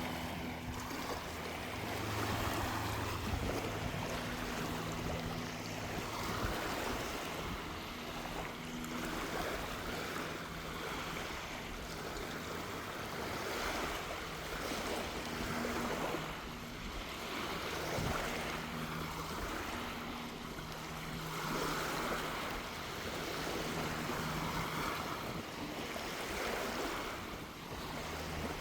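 Small waves washing up on a sandy shore, the surf rising and falling every few seconds, with a sea breeze. A faint low hum comes and goes underneath.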